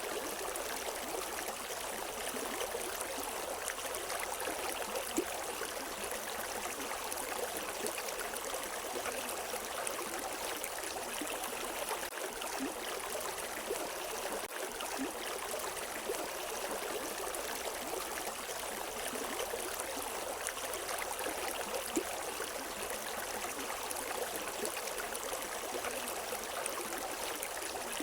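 River water flowing and splashing over rocks in a steady rush, with small splashes and gurgles scattered through it and no birdsong.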